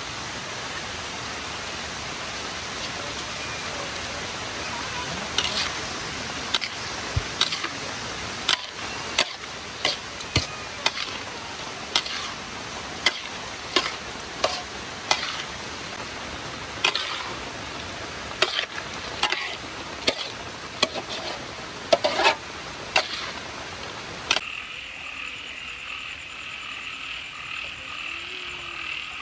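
Steady sizzling hiss of food frying, with sharp knocks about once a second. Near the end it cuts off abruptly, and frogs croak in a steady chorus.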